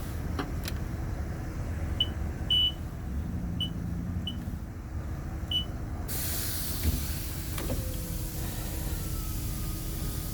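Car wash pay keypad beeping five times as a five-digit wash code is punched in. About six seconds in a steady hiss starts, with a single thump a second later, over a low rumble.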